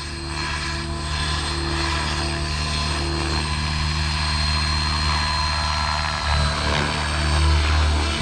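Oxy5 electric RC helicopter in flight: a steady buzz of the spinning rotor blades with the electric motor's whine above it. The low rotor sound swells a couple of times near the end as the helicopter is manoeuvred.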